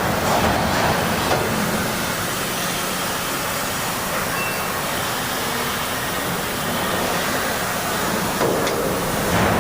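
Steady industrial workshop machinery noise with a faint low hum and hiss, with a few short metallic knocks near the end, during Huck bolting of railway wagon parts.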